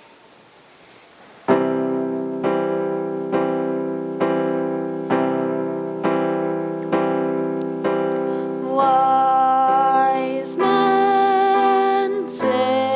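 Piano playing a slow song intro, a chord struck about once a second after a quiet start. About nine seconds in, a solo voice joins with long, held notes.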